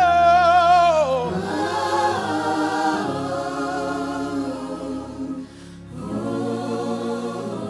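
Gospel worship singing: a lead vocalist holds a high note with vibrato, which slides down about a second in, then choir and band carry on. The sound dips briefly about five and a half seconds in before the singing picks up again.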